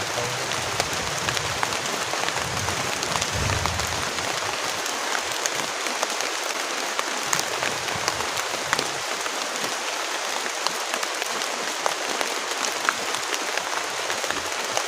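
Heavy rain falling: a dense, steady hiss with many sharp ticks of individual drops striking. A low rumble sits under it for the first few seconds.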